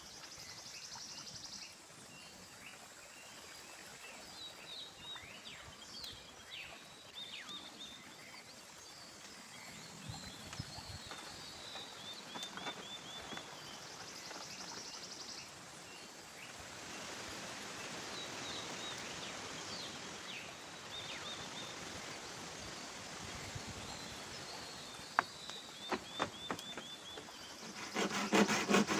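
Outdoor ambience: a steady hiss with repeated series of short chirping calls and pulsing buzzes from small animals. A few sharp knocks come near the end, and in the last second a saw starts cutting bamboo with quick, rhythmic strokes.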